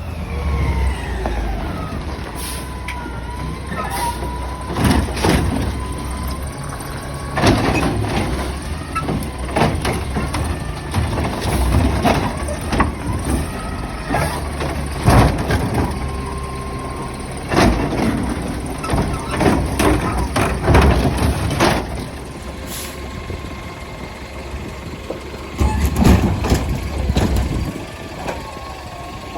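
A garbage truck's engine runs under a string of loud bangs every few seconds as a recycling bin is slammed against the truck to shake loose contents frozen inside it. A wavering mechanical whine sounds during the first few seconds.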